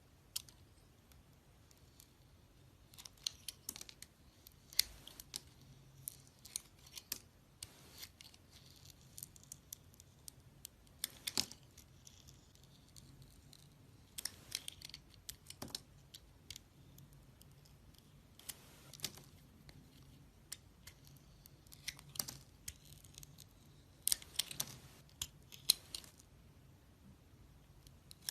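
A knife cutting and carving into a bar of soap: crisp, crackly scraping strokes in short bunches every few seconds, with quiet pauses between.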